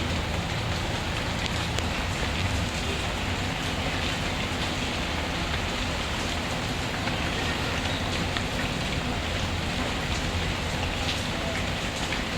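Steady rainfall with the occasional crackle and pop of a wood fire mixed in.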